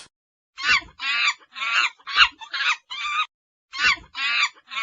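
A rapid series of about a dozen short, high-pitched animal calls, with a brief pause about three and a half seconds in.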